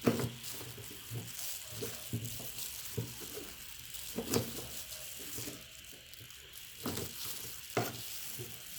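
Meat grinder mashing soft banana: a continuous wet crackling and squelching, broken by irregular knocks every second or so.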